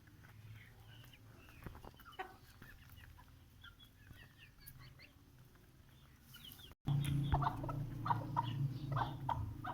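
Aseel chickens clucking, faint at first. About two-thirds of the way through the sound drops out for an instant and comes back louder, with quick short clucks over a low steady rumble.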